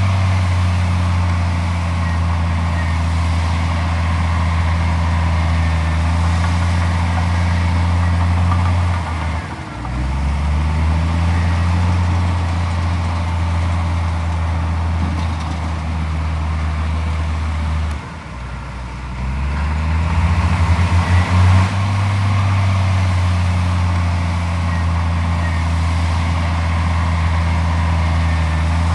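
Heavy diesel engine running steadily under load. Twice it drops in pitch and sags, then climbs back up to speed, the second time with a brief rhythmic pulsing as it revs back up.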